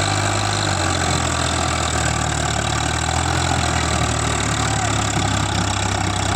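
Swaraj tractor's diesel engine running steadily at a constant speed.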